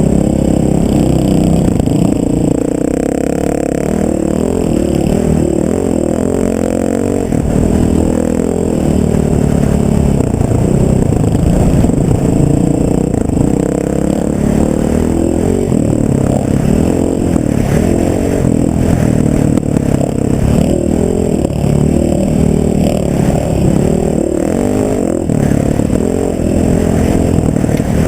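A vehicle engine running with its revs rising and falling over and over, with clatter and scraping mixed in.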